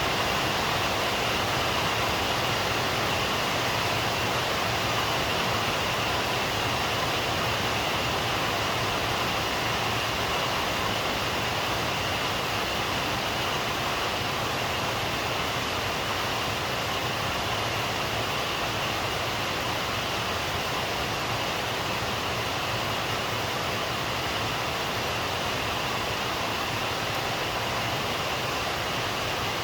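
Steady rain falling at night, an even, unbroken hiss with no thunder or other distinct sounds.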